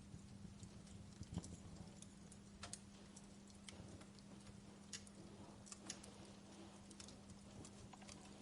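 Fireplace wood fire crackling softly: irregular small pops with a few sharper snaps, over a faint steady hum.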